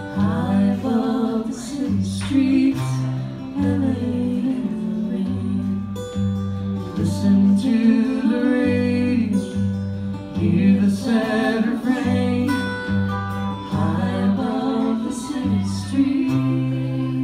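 Acoustic guitar music: strummed chords over a repeating low bass-note pattern, an instrumental passage of a folk-style song.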